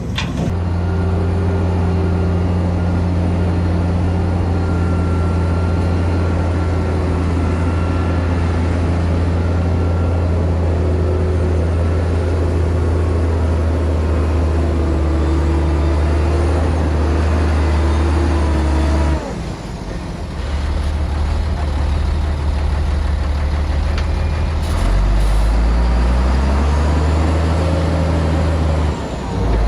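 Heavy diesel engine of earthmoving equipment running steadily, a deep drone that breaks off about two-thirds through. Another engine drone follows, and its pitch rises briefly as it revs near the end.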